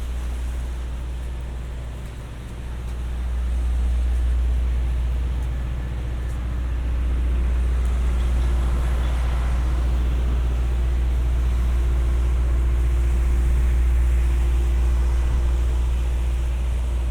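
Steady low rumble of city street traffic, with a faint engine hum coming in about halfway through.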